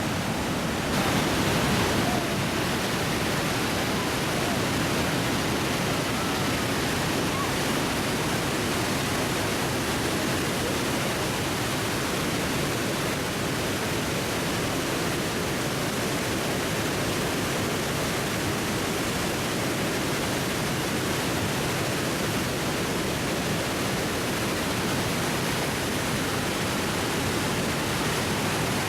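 Roar of Iguazu Falls' water pouring over the cliff: a steady, dense rushing, a little louder for about a second near the start.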